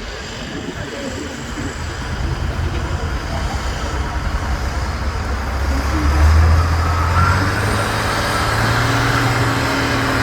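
Heavy off-road trial truck's diesel engine working on the course, its note swelling about two thirds of the way in and then holding, with a higher whine above it.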